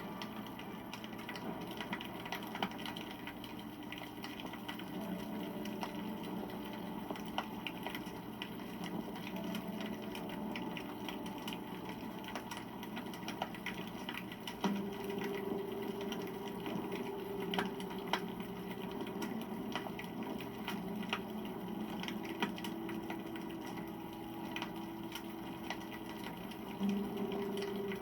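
Wood campfire crackling, with irregular small snaps and a few louder pops, about 15 s in and again near the end, over a low steady hum.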